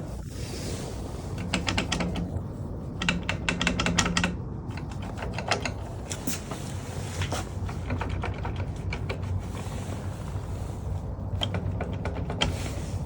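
Runs of rapid mechanical clicking, ratchet-like, densest in the first few seconds and then scattered, over a steady low hum that cuts off near the end.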